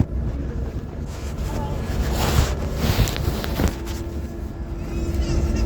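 Airliner cabin noise after landing: a steady low rumble, with a few short knocks and rustles around the middle and a steady hum that comes in about two-thirds of the way through.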